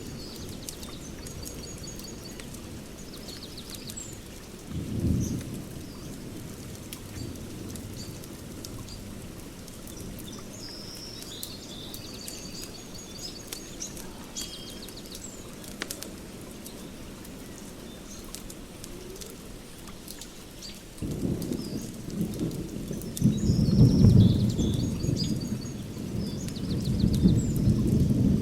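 Outdoor fire pit crackling with scattered small sharp pops over a steady low hiss, while songbirds chirp on and off. A deep low rumble swells briefly about five seconds in, then rises suddenly about two-thirds of the way through and stays loud, becoming the loudest sound.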